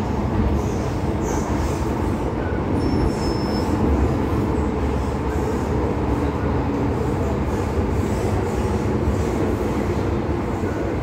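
MTR M-Train metro car running along the track: a steady, loud rumble of wheels and running gear, with faint brief wheel squeals.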